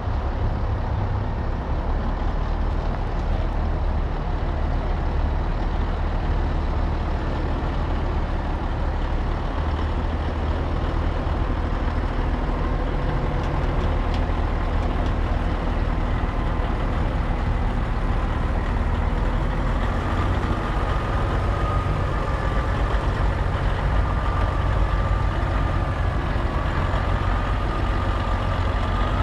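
Heavy truck's diesel engine running steadily at low revs. A wavering high whine joins about two-thirds of the way in.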